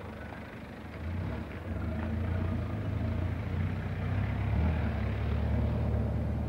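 Engine of a small four-wheel-drive utility vehicle running as it drives along, a steady low drone that grows louder about a second in.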